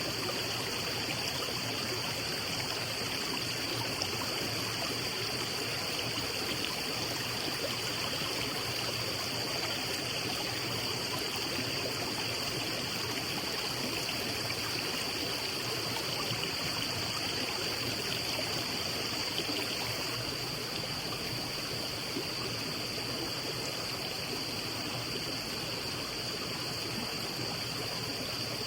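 Steady rushing noise of flowing water, unchanging throughout, with a constant high-pitched whine laid over it.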